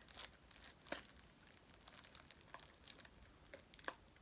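Faint crinkling of a plastic candy wrapper, scattered irregular crackles, as fingers pick and pull at the package trying to tear it open.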